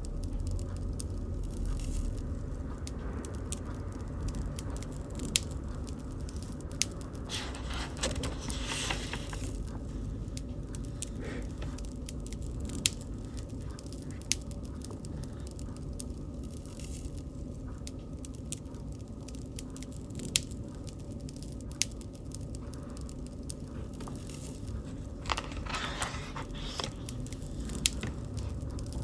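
Bonfire burning: a steady low rumble of flame with scattered sharp crackles and pops. There are two brief spells of denser crackling, about 8 seconds in and again near the end.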